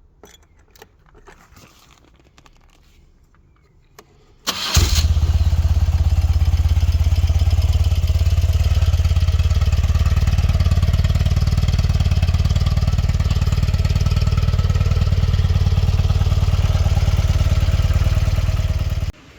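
BMW R100RS's air-cooled flat-twin engine cranking briefly and catching about four and a half seconds in, then running steadily until it cuts off suddenly near the end.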